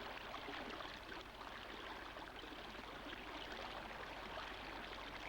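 Steady, fairly quiet rush of running water, like a forest stream or trickle.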